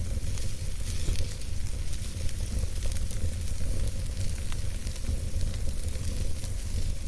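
Wood campfire crackling, with frequent small sharp pops over an even hiss and a steady low rumble underneath.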